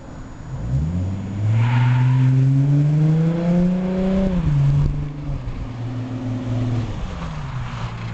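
V6 engine through a Pypes mid-pipe exhaust, heard from outside the car: revved up steadily for about three seconds, then let back down in steps, holding briefly at a raised speed before dropping to idle.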